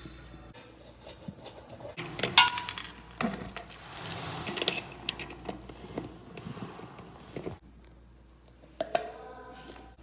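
Small metal objects clinking and clattering, loudest in a ringing clatter about two and a half seconds in, followed by scattered clicks and knocks and a brief ringing note near the end.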